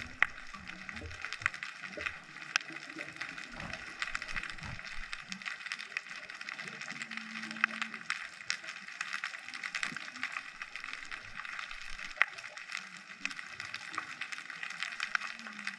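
Underwater ambience picked up by a GoPro camera: a dense, steady crackle of countless small clicks, with a few short low hums.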